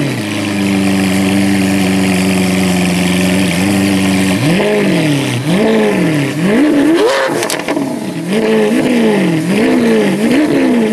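Supercar engine running at a steady speed for about four seconds, then revved over and over in quick blips, the pitch rising and falling roughly once a second.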